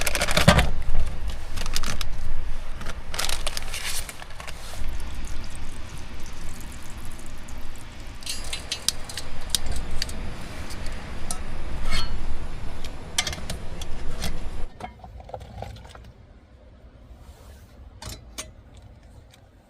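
Gusting wind buffeting the microphone as a low, uneven rumble, mixed with scattered clicks and metallic clinks of things being handled. The wind noise cuts off sharply about three-quarters of the way through, leaving only faint clicks.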